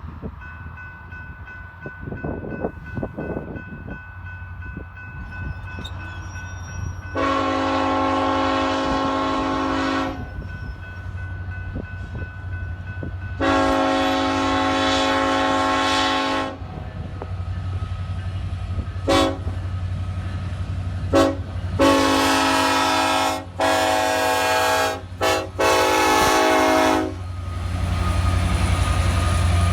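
Diesel freight locomotive horn sounding two long blasts, then two short toots, then a string of four blasts with brief gaps between them. A low engine rumble grows louder near the end as the train draws close.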